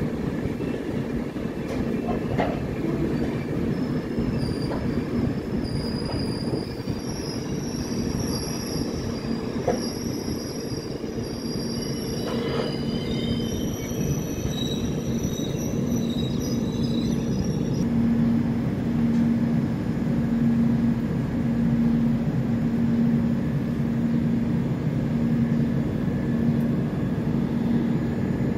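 Passenger train running over the rails with a steady rumble, its wheels squealing in several thin high tones from about four seconds in until about seventeen seconds in. Later a steady low hum joins the running noise.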